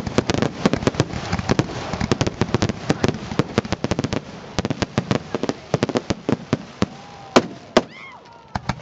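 Fireworks display: a rapid barrage of bangs and crackles, several a second, thinning out toward the end with one louder bang near the end.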